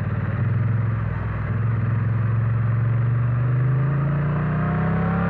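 Triumph Bonneville T100's parallel-twin engine under way; the throttle opens about half a second in and the revs then climb steadily as the bike accelerates.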